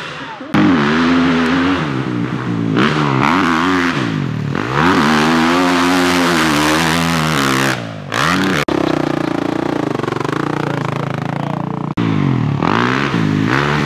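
Dirt bike engine revving hard, its pitch climbing and falling again and again as the rider works the throttle and shifts. The sound breaks off abruptly a couple of times near the end.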